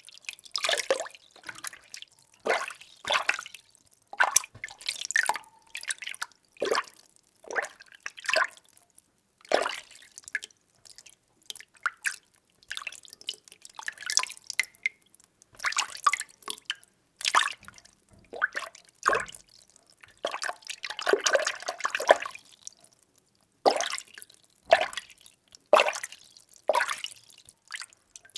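Water being stirred, sloshing and splashing in repeated strokes roughly once a second, with a longer unbroken swirl about three-quarters of the way through.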